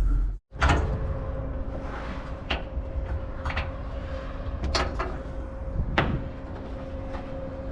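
A handful of sharp knocks and clunks, about six, spread over a steady low hum.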